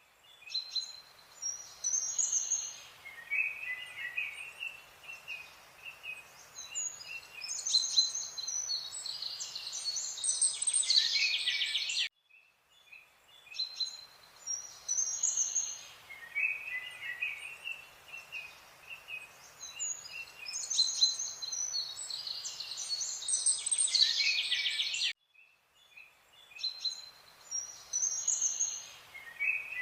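Songbirds chirping and trilling over a faint steady hiss, a looped nature recording that drops out briefly to silence about every 13 seconds.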